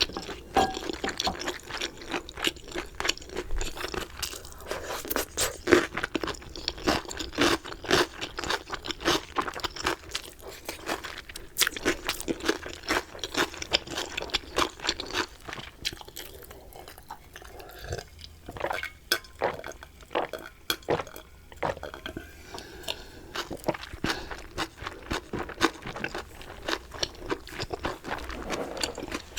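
Close-miked crunching and chewing of crispy chicken: dense, irregular sharp crunches as bites are chewed, thinning out a little about halfway through before picking up again.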